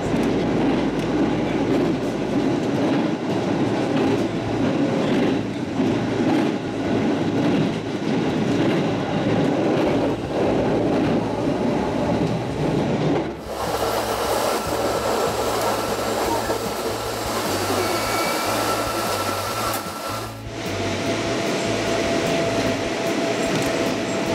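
Electric train running, heard from inside the front car: a loud rumble and clatter of wheels on a steel truss bridge. About halfway through, the sound changes abruptly to a lighter running noise with a steady high whine, which shifts lower near the end.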